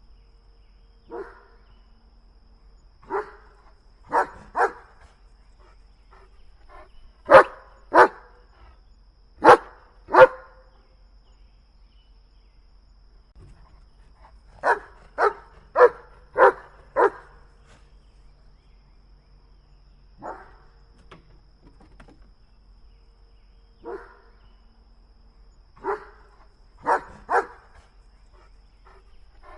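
A dog barking in short groups: single barks and pairs, with one quick run of five about halfway through, separated by pauses of a few seconds. Some of the barks are noticeably quieter than others.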